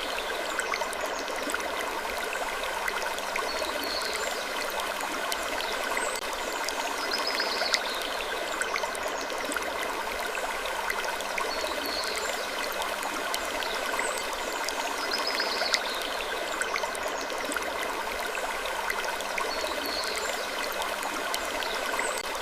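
Steady rushing ambience, like running water, under faint wood creaks that recur every two to three seconds.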